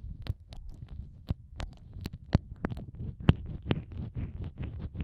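ASMR ear-eating mouth sounds made right against the microphone: irregular wet clicks and smacks from lips and tongue over a low muffled rumble.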